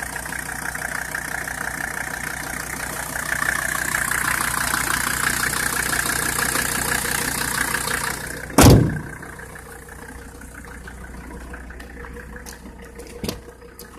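1985 Mercedes-Benz 300D Turbo's five-cylinder turbodiesel idling steadily. About eight and a half seconds in comes a single loud thump, after which the engine sound is much quieter, and two smaller clicks follow near the end.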